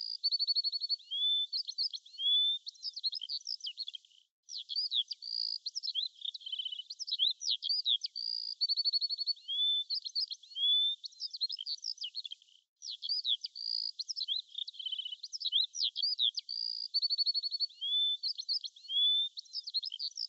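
Songbirds chirping, whistling and trilling: a busy run of short calls, a held whistle and a fast trill. The same sequence repeats about every eight seconds, like a looped birdsong track, and cuts out briefly twice.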